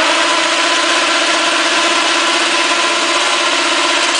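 Motorcycle engine running at a steady, even idle.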